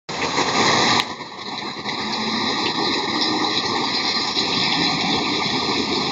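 Steady hiss of heavy rain falling, with a sharp click about a second in.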